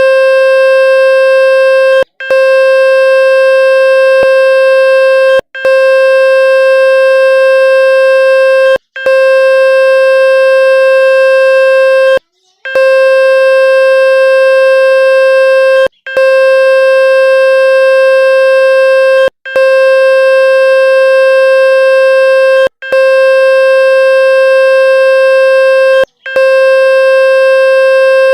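Electronic water-ejection tone for clearing water from a phone speaker: a loud, steady, mid-pitched buzzing tone rich in overtones. It breaks off for a moment about every three and a half seconds.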